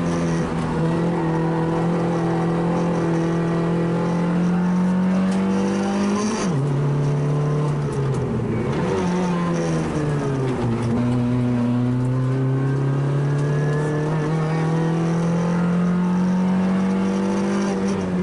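A rally car's engine running hard at high revs, heard from inside the cabin. Its pitch drops sharply about six seconds in and again around ten seconds in as the driver lifts off and changes gear for corners, then climbs slowly as the car accelerates.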